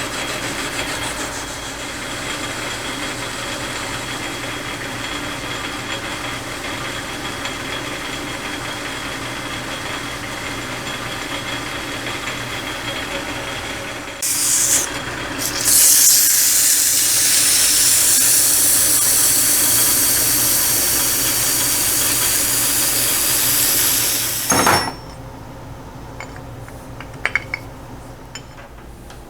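Metal lathe running while a cutting tool turns down the surface of a wobbling roller between centers, making it concentric. About halfway through, a loud hiss starts and runs for about nine seconds before cutting off suddenly, leaving the lathe running more quietly with a few small clicks.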